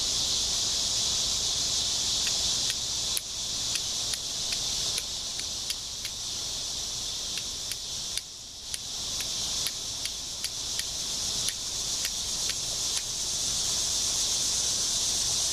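Steel striker scraped against flint, a string of sharp irregular strikes, about one to two a second, from about three seconds in until shortly before the end, throwing sparks at char cloth. Insects drone steadily throughout.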